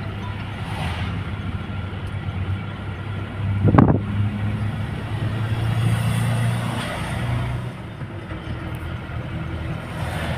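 Motor vehicle engine running steadily with a low hum, and a brief loud thump about four seconds in.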